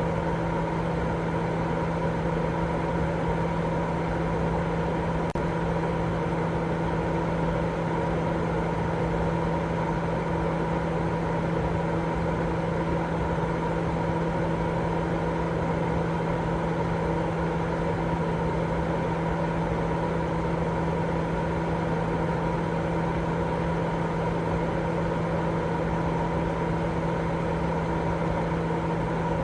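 Continuous sleep white noise: a steady, unchanging rushing noise with a low hum running through it, fuller in the lows and mids than in the highs.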